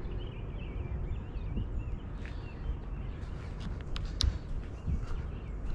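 A bird chirping in short wavering phrases for the first second and a half, over a steady low rumble. A few sharp clicks come around four seconds in.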